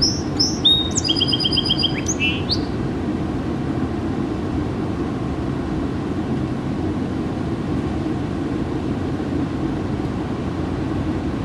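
A bird sings a brief song of chirps and a fast trill in the first three seconds, over a steady low background rumble of traffic.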